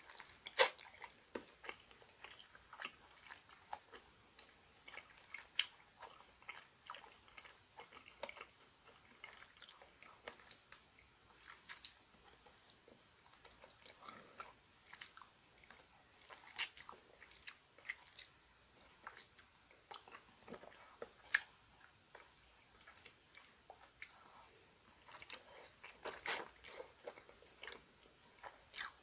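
A person chewing bone-in chicken feet: wet mouth sounds with many scattered sharp clicks. The loudest clicks come just after the start and again near the end.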